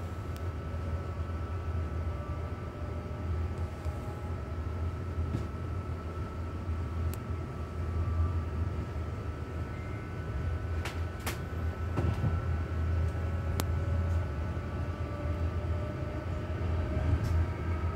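Passenger train running slowly, heard from inside the carriage: a steady low rumble with a faint whine above it. A few sharp clicks come through, most of them in the last third.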